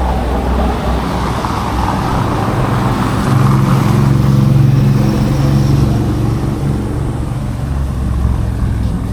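A motor vehicle engine running close by, growing louder about three seconds in and fading again a few seconds later, over a steady low rumble.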